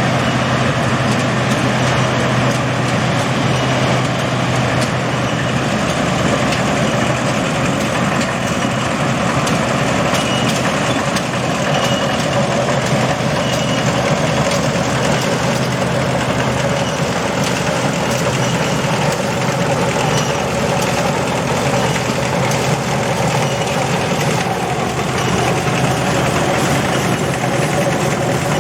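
Combine harvester running steadily in a continuous, even drone.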